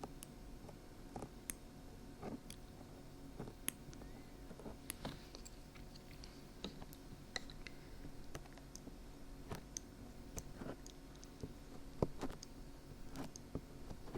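Dried glue being peeled off the ears of a 3Dio binaural microphone, heard close up as irregular small crackles and ticks.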